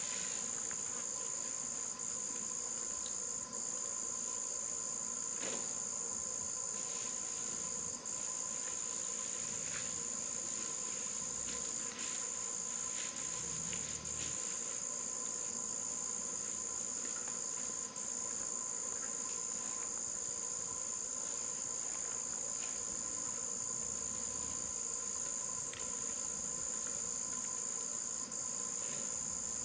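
Insects calling in a steady, high-pitched continuous drone, dipping only momentarily every few seconds, with a few faint clicks.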